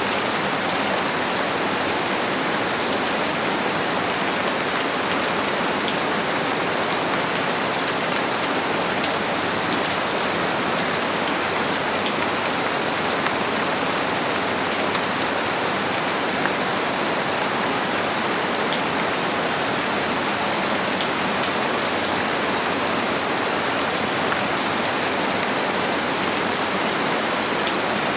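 Steady rain falling: an even, unbroken hiss with scattered crisp drop ticks.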